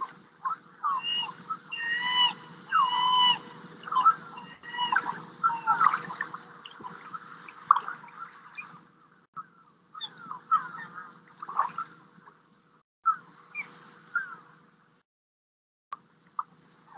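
Birds calling and chirping in quick, varied phrases over a faint steady hum, with a short pause near the end.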